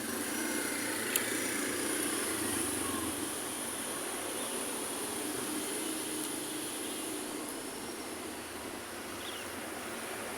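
Street traffic dominated by a large city bus passing: its noise swells over the first couple of seconds and then fades slowly, with one sharp click about a second in.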